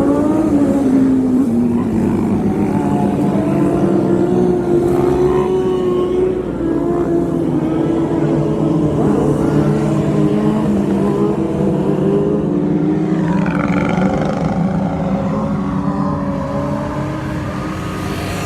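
Several motorcycle engines running and revving, their pitches rising and falling and overlapping.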